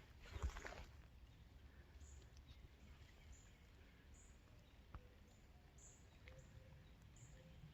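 Faint, short, high bird chirps repeating every second or so over near silence, with a footstep crunch near the start and a single click about five seconds in.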